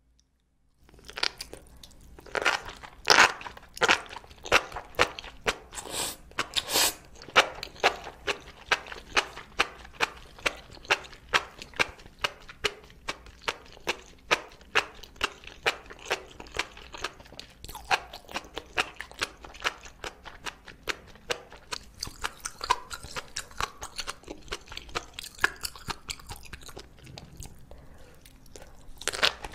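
Close-miked chewing of sauce-coated enoki mushrooms: a dense run of sharp, wet crunching clicks, several a second. It starts about a second in, is loudest in the first few seconds, gets lighter in the middle and picks up again near the end.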